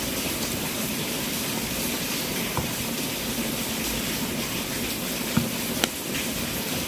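Wood fire burning in a fireplace: a steady hiss with a few sharp crackling pops, two of them close together a little past five seconds in.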